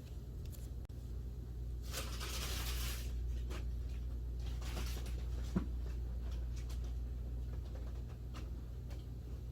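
Indoor handling noises over a steady low hum: a brief rustling hiss about two seconds in, a shorter one near five seconds, and a sharp click in the middle.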